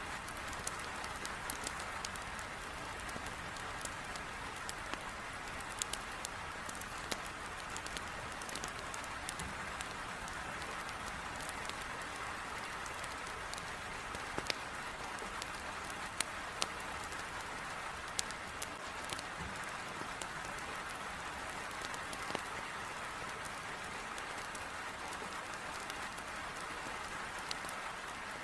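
Heavy rain beating steadily against a window, mixed with a wood fire crackling in a fireplace: sharp irregular crackles throughout, with a few louder pops.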